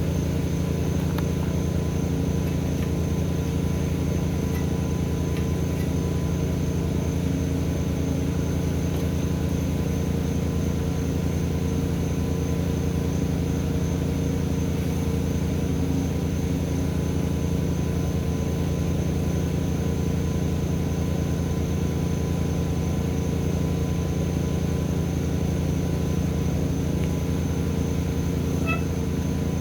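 An engine running steadily at a constant speed, a low, even drone with no change in pitch.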